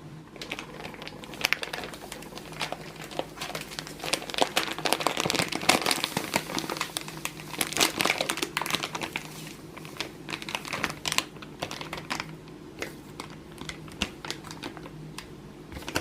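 Packaging crinkling and rustling as it is handled and unwrapped by hand, busiest in the middle, then thinning to scattered crackles near the end.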